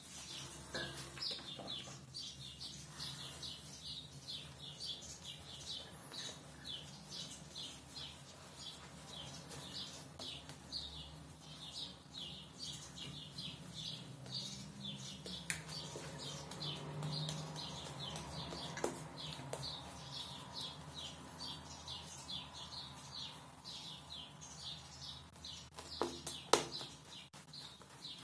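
A small bird chirping over and over in short, high chirps, two or three a second, with a couple of light knocks near the end.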